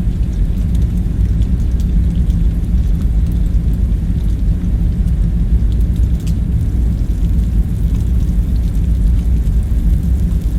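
Steady deep rumble of background ambience, with faint scattered light ticks above it.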